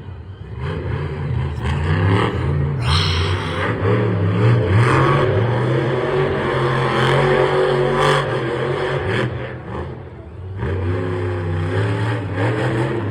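Large vehicle engine revving and running hard. It rises about a second in, eases off briefly near ten seconds and picks up again.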